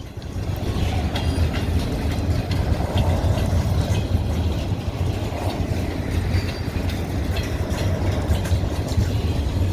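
Freight train of log and pulpwood cars rolling past, a steady rumble with steel wheels clicking over the rail joints.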